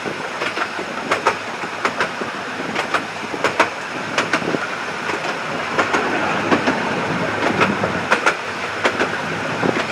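A miniature railway's carriage running along the track: a steady rumble with repeated sharp clicks, often in pairs, as the wheels pass over rail joints.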